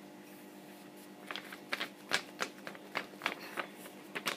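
A sheet of A4 printer paper rustling and crinkling in a string of short, irregular crackles as it is being folded, starting about a second in.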